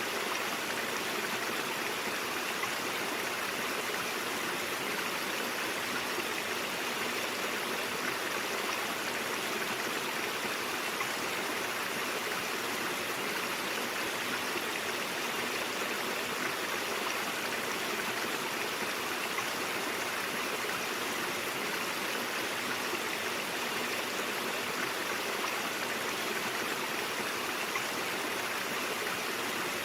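A stream flowing, giving a steady, unbroken rush of running water.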